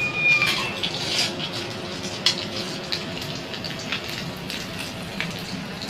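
Food frying in a pan with a steady sizzle, with scattered clinks and scrapes of a utensil stirring it.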